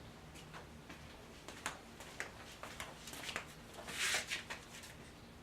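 Scattered light clicks and taps, about a dozen spread irregularly, with a short hissing rustle about four seconds in.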